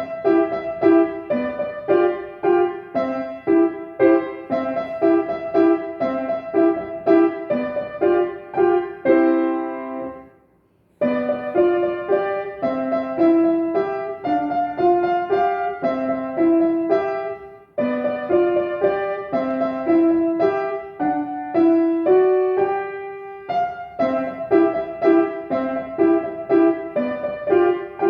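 A piano playing a simple melody in a repeating rhythmic phrase of separate notes; it stops briefly about ten seconds in, then starts again.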